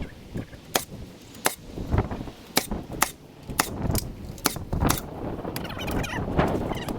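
A run of sharp clicks or knocks, about a dozen, spaced irregularly from half a second to a second apart.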